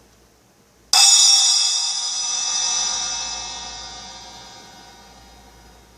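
An 8-inch Kasza R Series rock splash cymbal struck once with a wooden drumstick about a second in, ringing bright and slowly fading away. It is recorded raw through a tablet's built-in microphone.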